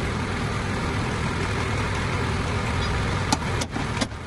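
An engine running steadily at idle, a low rumble, with a few sharp clicks near the end.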